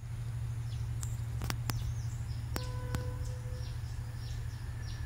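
Birds calling outdoors, a run of short high chirps that each sweep downward in pitch, over a steady low rumble. A few sharp clicks sound in the first half, and a faint steady tone comes in a little past halfway.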